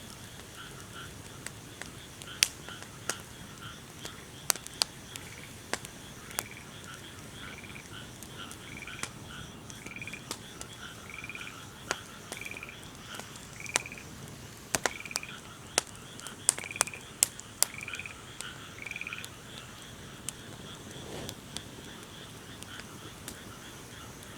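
Wood fire crackling with sharp, irregular pops, the loudest sounds. Over it a frog croaks in a regular series of short calls about once a second through the middle, against a faint, steady pulsing chorus of night calls.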